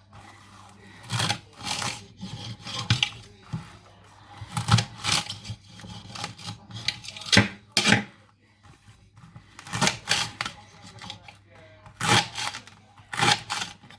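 Kitchen knife chopping leeks on a chopping board: irregular cutting strokes, the loudest coming about every second or two.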